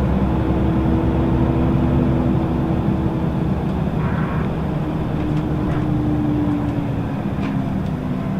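Scania L94UB city bus with ZF automatic gearbox heard from inside the cabin while driving: a steady engine rumble with a held drivetrain whine. About four seconds in there is a brief rattle, and the sound eases off slightly toward the end.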